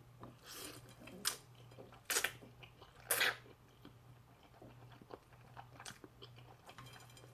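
Close-up chewing and eating of spicy noodles, a quiet run of mouth sounds broken by a few short sharper bites about one, two, three and six seconds in.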